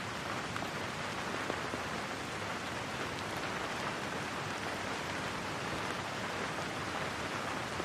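Steady rain falling, an even hiss of rain on a surface with no let-up.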